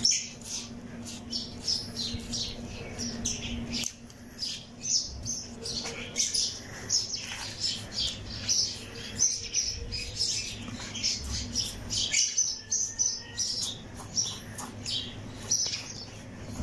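Small birds chirping busily, many short high chirps overlapping one after another, with a faint low hum underneath in the first few seconds.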